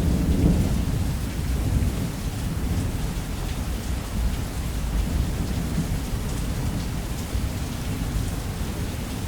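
Heavy rain pouring steadily on a roof, under a deep rolling rumble of thunder that is strongest at the start and slowly eases.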